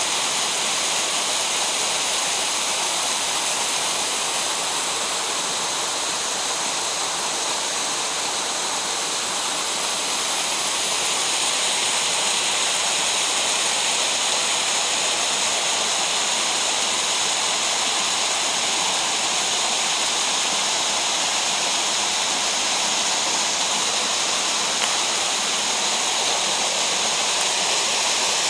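Loud, steady rushing of water in a mountain gorge stream, growing slightly louder about ten seconds in.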